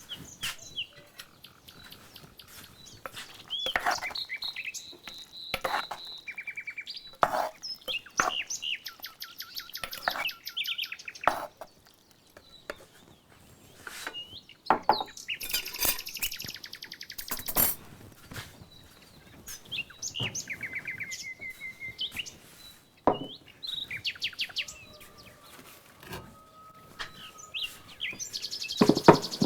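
Several songbirds chirping and singing, with rapid trills and whistled calls overlapping. There are a few sharp knocks scattered through it.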